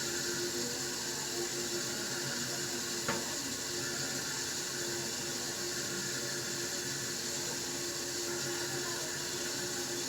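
2008 Kohler Kelston toilet tank refilling after a flush: water runs through the fill valve with a steady hiss and a steady tone above it. A small click about three seconds in.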